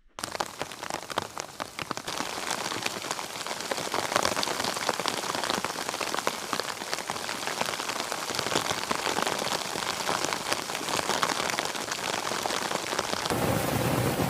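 Rain falling steadily, a dense mass of individual drops striking a surface. It starts abruptly, and near the end it changes to a smoother, fuller rush.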